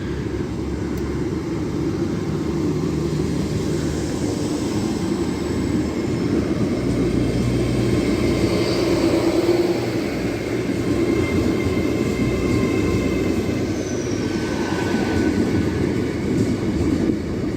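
Class 800 Azuma bi-mode train pulling out of a platform on its underfloor diesel engines: a steady engine and wheel rumble that swells slightly towards the middle, with faint thin whines above it.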